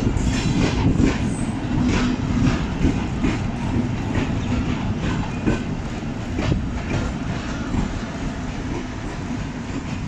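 Passenger train coaches rolling slowly into a station, heard from an open coach window: steel wheels clacking irregularly over rail joints over a steady low rumble. The sound gradually fades as the train slows.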